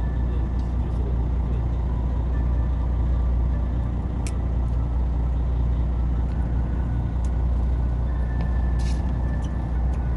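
Boat engine running steadily with a low drone, plus a few faint clicks.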